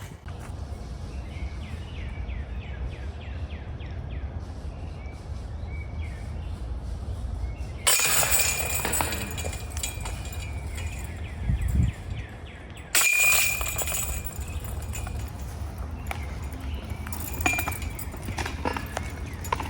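Wind rumbling on the microphone, broken by two bursts of bright clinking and jangling about eight and thirteen seconds in.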